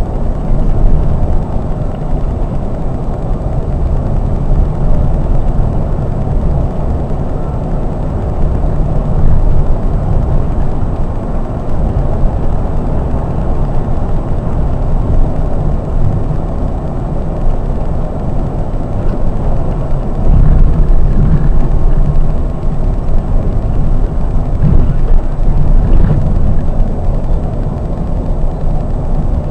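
Scania K420 double-decker coach on the move, heard from inside the driver's cab: a steady low rumble of engine, tyres and road noise, swelling louder a few times in the second half.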